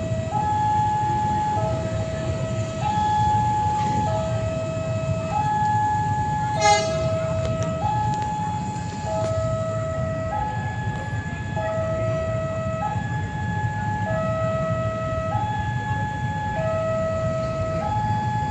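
Railway level-crossing warning alarm sounding a steady two-tone electronic signal, a high and a low tone alternating about once a second, over a steady low rumble. A single sharp metallic ring stands out about seven seconds in.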